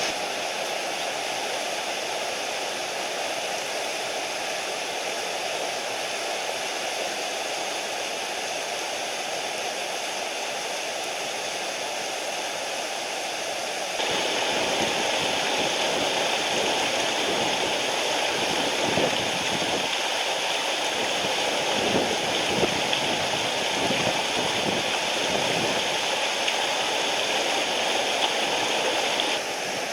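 Mountain stream water rushing steadily over rocks. About halfway through it becomes louder and fuller, with some gurgling and splashing, then drops back to the softer rush near the end.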